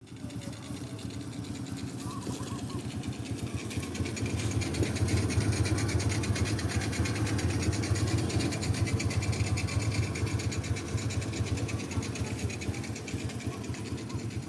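A small motor running steadily with a rapid, even pulsing, getting louder about four seconds in.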